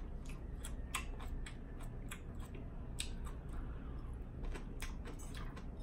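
Close-miked chewing of a mouthful of salad: a string of irregular crisp crunches and wet mouth clicks.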